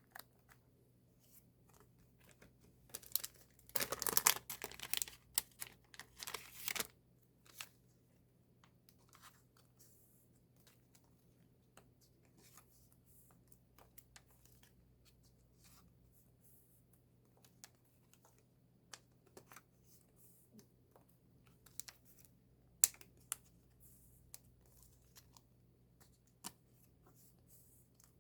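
Paper and plastic album packaging being handled, with a burst of crinkling and tearing a few seconds in, then scattered light taps and clicks as items are moved about.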